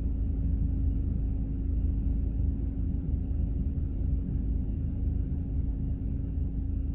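BMW F30 engine idling: a steady low rumble with an even hum.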